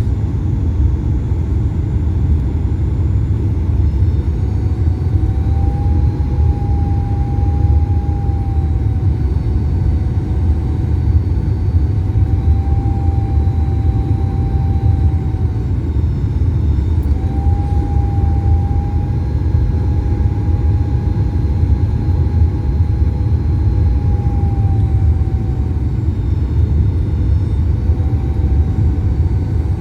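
Boeing 737 MAX-8 cabin noise in flight: a steady, deep rumble of engines and airflow. A faint whine above it wavers slightly in pitch and drops out several times.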